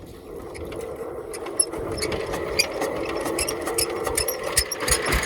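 Single-cylinder diesel power tiller engine being hand-cranked, clattering and whirring, getting louder as the cranking speeds up. Near the end it begins firing in regular low beats.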